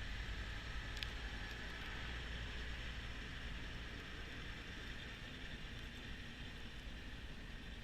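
Kubota B2650 compact tractor's diesel engine running steadily under load, driving the front-mount snowblower, with one light click about a second in.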